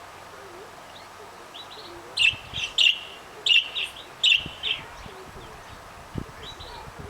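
Caged canary chirping: a quick run of about seven loud, sharp chirps in the middle, with softer chirps before and after.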